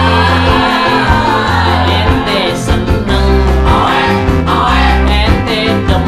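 A band playing a song with a singer's voice over guitar and a steady bass line.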